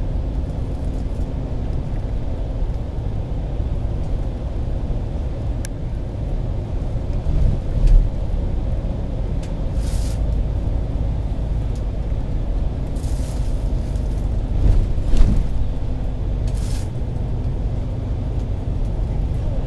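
Cabin noise inside a moving shuttle bus: a steady low rumble of engine and tyres on the road, with a couple of louder thumps and a few short hisses.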